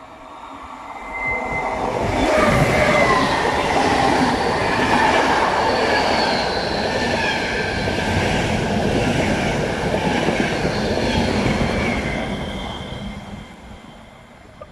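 Electric passenger train with E402B locomotives passing through the station without stopping: a rumble of wheels on rails that builds as it approaches, stays loud with high whining tones over it while the coaches go by, and fades as it goes away near the end.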